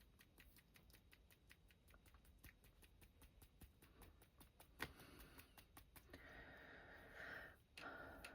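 Faint, quick, regular taps of a paintbrush being knocked to splatter white gouache onto paper, about four or five a second, with a soft hiss about six seconds in.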